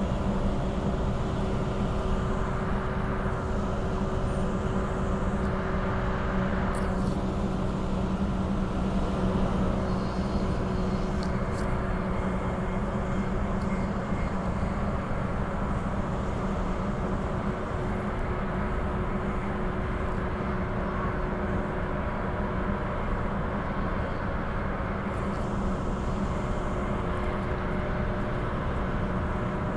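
Interior running noise of a Transperth Bombardier B-series electric multiple unit travelling between stations: a steady rumble with a constant hum.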